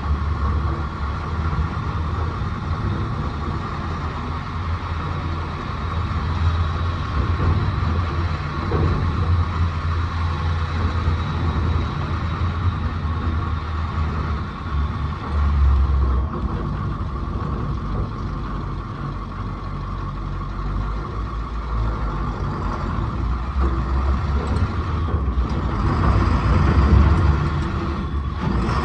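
A heavy vehicle's engine running steadily, with a faint steady high whine over the low rumble.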